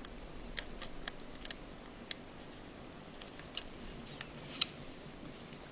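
Scattered small, sharp clicks and taps from handling an iPhone 5's internals as the screen's digitizer ribbon cable connector is lined up and pressed onto its socket, with a louder single click near the end.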